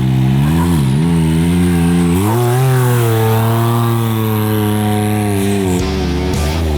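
Can-Am side-by-side off-road vehicle's engine revving. Its pitch dips briefly about a second in, climbs sharply a little after two seconds, holds high, then drops back near the end.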